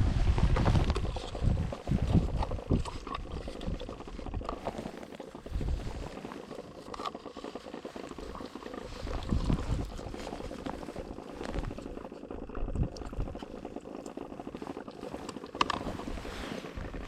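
Water sloshing and splashing as a hand works in a minnow bucket for a fathead minnow, with low, uneven rumbles of handling noise.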